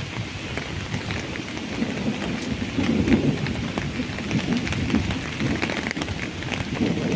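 Steady rain falling, with many sharp ticks of individual drops. A low rumble swells about two seconds in and again near the end.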